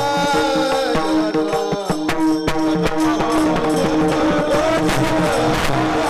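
Devotional kirtan music: a melody sung over held steady notes, with hand-drum strikes.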